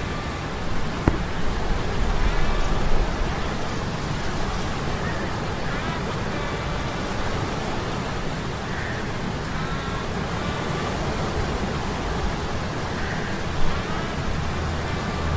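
Low mechanical hum of metal gears under a steady wash of sea-storm noise, rain and surf. There is a sharp click about a second in and a brief louder bump near the end.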